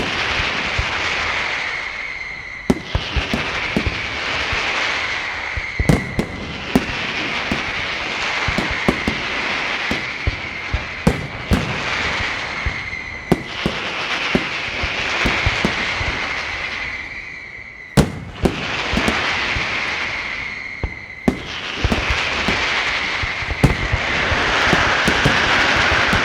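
Aerial fireworks display: repeated sharp bangs of bursting shells over recurring waves of hissing crackle, several seconds each, with a thin high whistle running through most of the waves.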